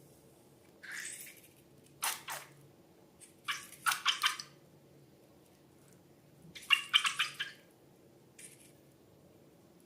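Slime being squeezed and handled, giving short bursts of wet, sticky crackling and clicking, about five times.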